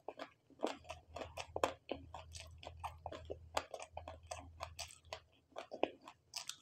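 Close-up chewing of a mouthful of noodles and fried prawn, with many quick wet mouth clicks and smacks, several a second.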